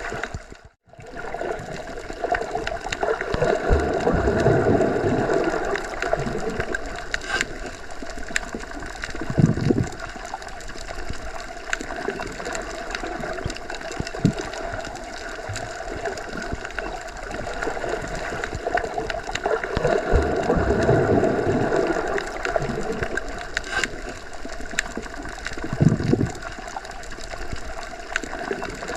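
Underwater ambience as heard submerged: a muffled, steady rush of water with a faint constant hum, swelling louder and fading back twice, with a couple of short low thuds. It drops out almost to silence for a moment about a second in.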